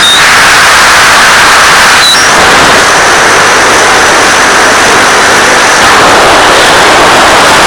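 Steady, loud rushing hiss from the flying FPV model plane's audio downlink, with a faint high whine that drops in pitch at the very start and steps back up about two seconds in.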